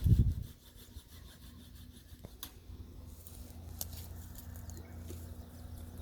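Low rumble of wind on the microphone, loudest in a short gust right at the start, with a few faint sharp clicks and some rubbing.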